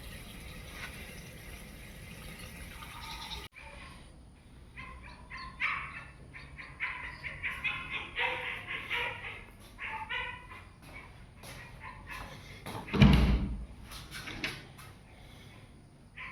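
Domestic fowl calling in quick runs of short, repeated notes for several seconds, after a steady hiss that cuts off abruptly. A loud thump about 13 seconds in.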